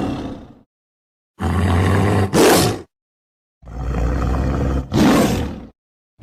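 Leopard calling. One call dies away at the start, then two more follow, each about a second and a half long with a silent gap between. Each call ends in a second, louder pulse.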